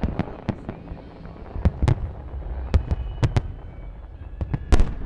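Aerial fireworks display: shell after shell exploding in quick, irregular succession, with the loudest bursts coming close together near the end.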